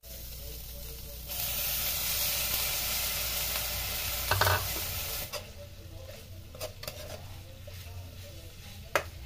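Hot oil in a steel wok sizzling, growing loud about a second in as snow peas are tipped in onto sliced chilies and garlic. Later it settles to a quieter sizzle, with the metal spatula clicking and scraping against the wok as chicken and vegetables are stir-fried.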